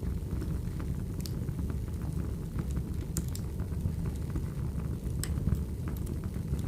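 Firewood burning: a steady low rumble from the fire, with scattered sharp crackles and pops at irregular moments.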